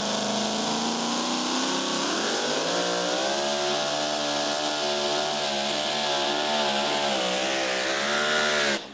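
Supercharged Hemi engine of a super modified two-wheel-drive pulling truck at full throttle under load. Its pitch climbs for about two seconds, then holds high with a slight waver until it cuts off suddenly near the end.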